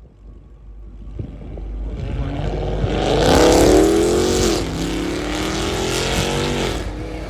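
A car pulling up, its engine growing louder as it approaches and revving with a rising note that drops off about halfway through, then running steadily before easing off near the end.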